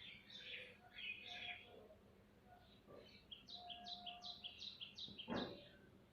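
Small birds chirping faintly, ending in a quick run of about seven repeated notes, with a brief thump near the end.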